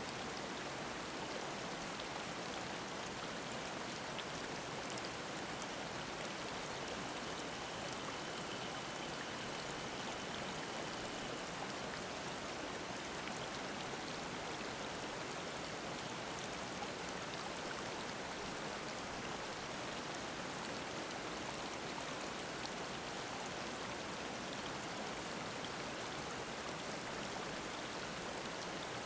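Mountain stream babbling steadily over rocks, an even rushing of water. A faint thin high tone rises over it for a few seconds, about seven seconds in.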